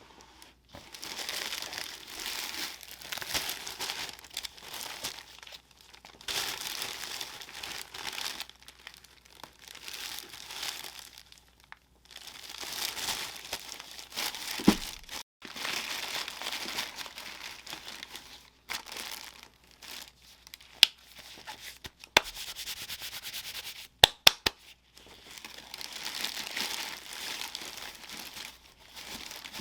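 Paper crinkling and rustling as it is handled in bouts of a few seconds each, during the unboxing of a pair of sneakers. A few sharp clicks or taps in the second half, several in quick succession near the end.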